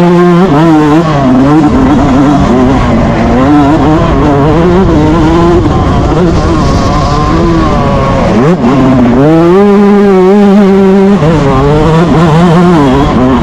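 Yamaha YZ125 single-cylinder two-stroke motocross bike ridden hard at race pace, its revs repeatedly climbing, holding high and dropping as the throttle is opened and shut. A long high-rev pull runs through about two-thirds of the way in, after a sharp dip in revs.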